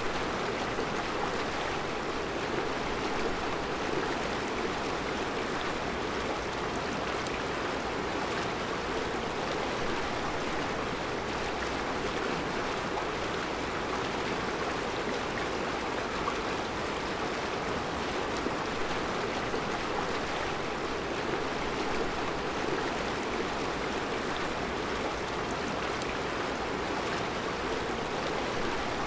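Mountain river flowing over round rocks in a rocky bed: a steady, even rushing of water.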